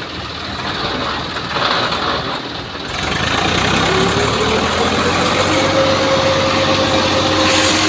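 Diesel tractor engines running hard, with a rough, noisy rumble. About three seconds in, an engine revs up: its pitch climbs for a second or so and then holds steady at the higher speed.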